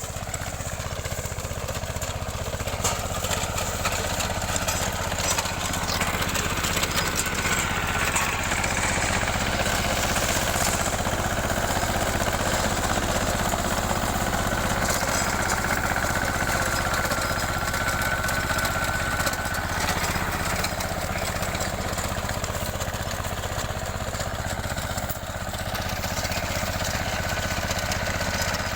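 Apollo mini tractor's 14 hp diesel engine running steadily.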